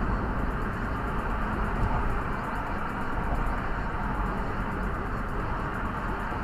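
Steady road and engine noise inside a moving car's cabin, a constant low rumble with a hiss above it.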